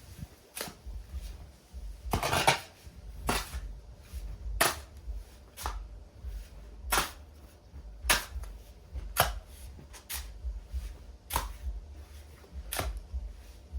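A hard object striking repeatedly, a sharp knock roughly once a second, over a steady low rumble.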